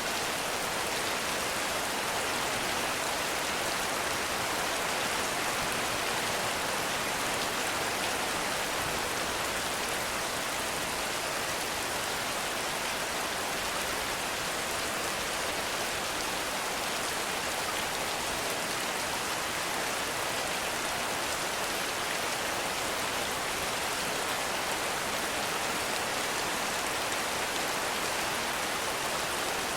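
Heavy rain falling steadily in a forest, a dense even hiss of drops on leaves and ground.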